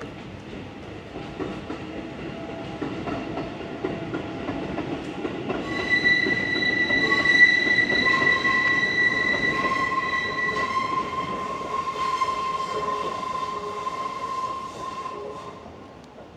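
A train passing, its running rumble swelling and then fading away, with steady high-pitched wheel squeal from about six seconds in until shortly before the end.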